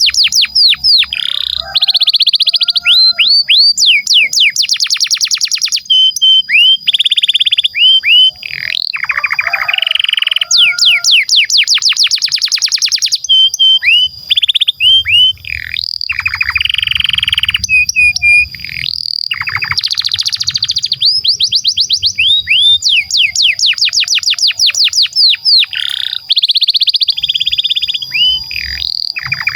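Canary singing a long rolling song: phrase after phrase of fast trills built from one falling note repeated many times a second, with short gaps and a change of note between phrases.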